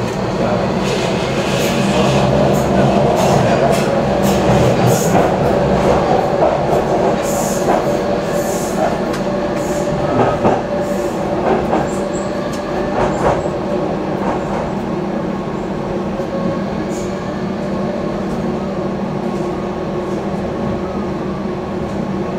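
Docklands Light Railway electric train running, heard from inside the car: a steady rumble and hum, with irregular sharp clicks of the wheels over track joints and points, most of them in the first half.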